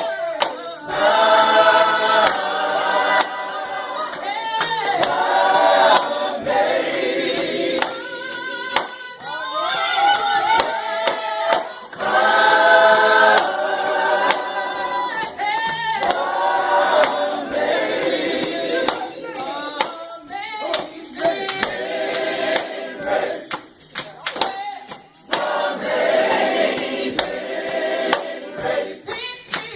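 Gospel group singing with a tambourine shaking in time.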